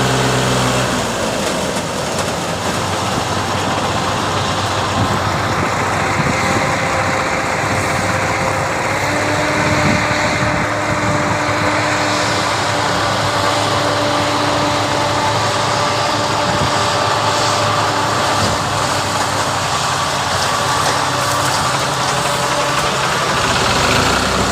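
Diesel tractor engine running steadily. About a second in the even hum turns rougher and busier, and about nine seconds in a steady whine joins it.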